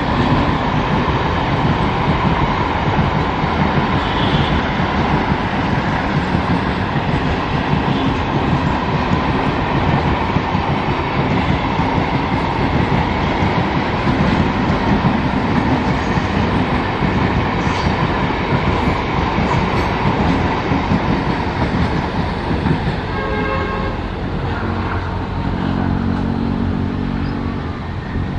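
An electric multiple-unit (MEMU) passenger train running past, with a steady loud rumble and wheels clattering over the rail joints. Near the end a pitched tone sounds over the rumble, which may be the train's horn.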